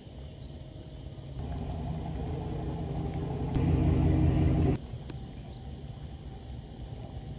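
A steady, low, engine-like hum that builds about a second and a half in, grows louder near the middle, then cuts off suddenly.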